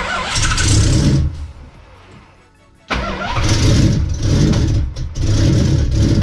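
Mopar 408 stroker small-block V8 being cranked over by its starter in two attempts, a short one of about a second and a longer one of about three seconds, without settling into a steady run. The engine is hard to start, which the owner puts down to a lack of fuel.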